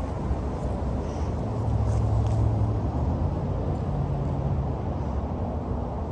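A show pickup truck's engine running at a cold idle just after a cold start, a steady low rumble that swells briefly about two seconds in.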